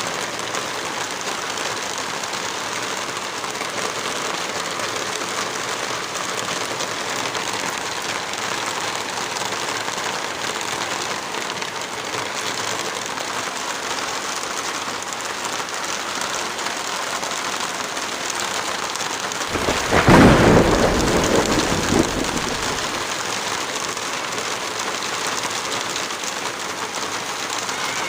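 Heavy rain falling steadily in an even hiss, with one roll of thunder about two-thirds of the way through that is the loudest sound and fades over about three seconds.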